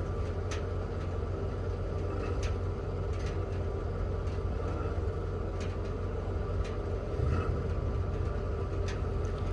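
Gas pump dispensing fuel into a truck's tank: a steady hum and rumble with a few faint clicks scattered through it.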